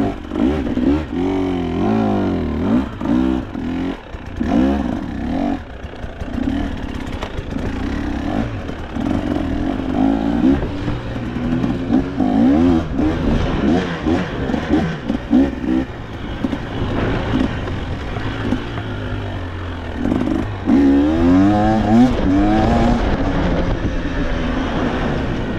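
KTM two-stroke enduro dirt bike engine being ridden over rough trail, its pitch rising and falling again and again as the throttle is worked, with knocks and rattles from the bike.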